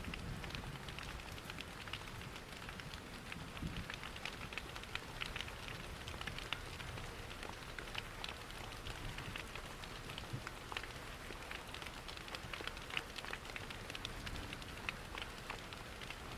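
Steady rain mixed with a crackling fireplace fire: an even hiss scattered with many small, sharp ticks.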